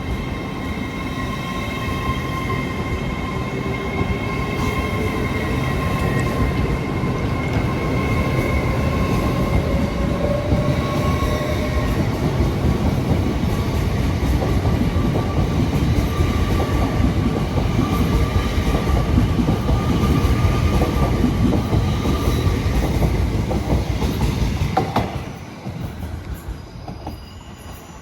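A train running through the station close by: heavy rumble from the wheels on the rails, with steady high squealing tones over it and a slowly rising tone partway through. The sound falls away sharply near the end.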